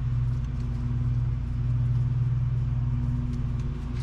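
1996 Toyota Tacoma's engine idling steadily, a low even hum. Its idle is set too low when it comes off the high idle, which the owner says makes it die.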